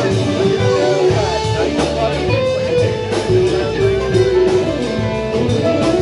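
Rock band music led by guitar, with held, melodic notes over a bass line that comes in about a second in.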